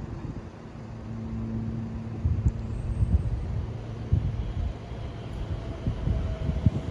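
Two coupled Class 720 Aventra electric multiple units approaching, a low rumble growing louder, with a faint steady whine in the last couple of seconds.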